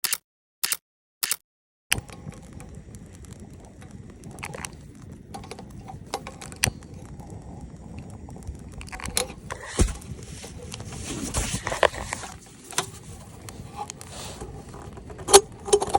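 Camera-shutter clicks about twice a second for the first two seconds. Then a wood campfire crackles and pops steadily, with a few louder pops and snaps near the middle and near the end.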